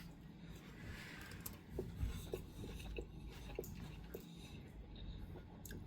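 A man chewing a mouthful of food, faintly, with a run of small irregular clicks.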